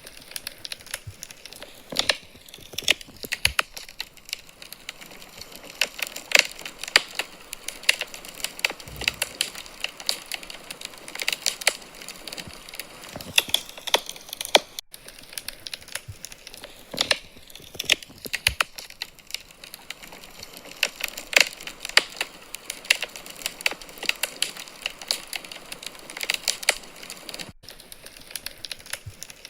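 Wood fire burning in a fireplace, crackling with frequent irregular sharp pops and snaps of burning logs over a faint steady hiss.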